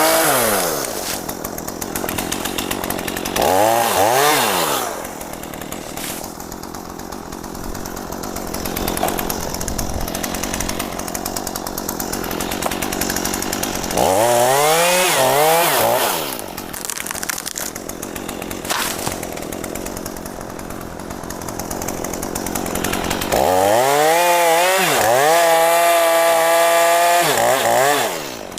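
Gasoline chainsaw revving in three bursts, each a rising-and-falling sweep of engine pitch, dropping back to a lower running sound in between. The last burst is held at full, steady revs for several seconds before falling away near the end.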